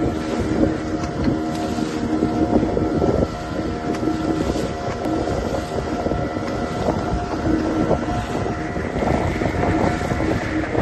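Boat engine running steadily with a constant droning hum, with wind buffeting the microphone.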